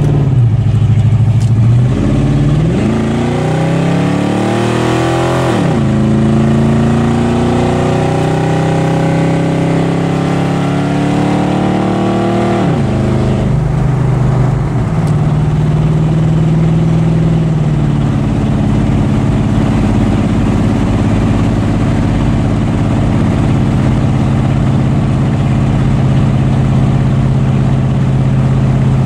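Ford 302 Windsor 5.0 L V8 with ported GT-40P heads and a custom camshaft, running on open, uncapped exhaust. It is revved twice at partial throttle, the pitch rising and then dropping back each time, with the second rev slower and longer. It then settles to a steady idle.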